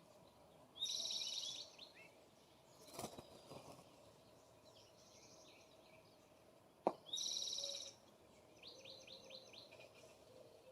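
Songbirds calling: two loud, rapid, high-pitched trilled calls about a second long, one just after the start and one about seven seconds in, with fainter twittering between. Two sharp knocks come about three seconds in and just before the second call.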